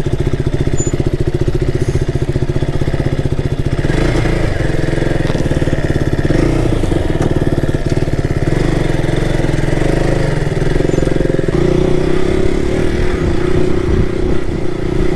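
Warmed-up KTM RC motorcycle engine ticking over with even firing pulses, then picking up revs about four seconds in and running steadily. Its note rises and strengthens near the end.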